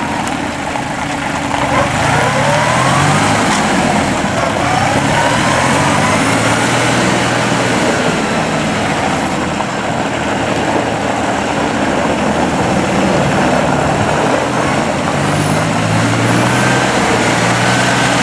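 The New Holland Workmaster 37's turbocharged three-cylinder diesel engine running steadily, its speed rising and falling several times.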